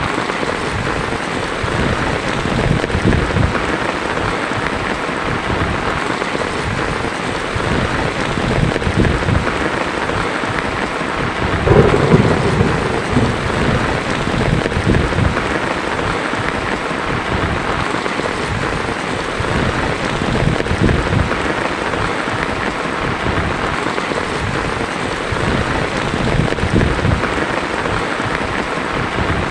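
Heavy rain falling steadily on a tin roof, with a rumble of thunder about twelve seconds in that fades over a few seconds.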